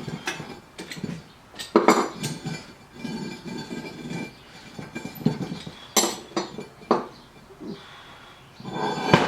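Metal clinks and clanks from tongs and tools being handled at a crucible smelting furnace: a few sharp knocks with a ringing tail, the loudest about two seconds in, about six seconds in and at the very end, with scraping and rustling between them.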